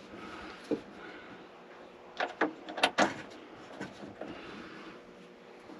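Sharp clicks and clatter from small metal hardware and tools being handled. There is a single click about a second in, then a quick burst of several clicks about two to three seconds in, followed by a couple of lighter taps.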